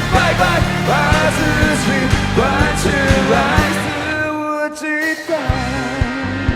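Rock band playing live: drums and bass under a wavering, bending lead melody. About four seconds in, the drums and bass drop out under a single held note, and the full band comes back in about a second later.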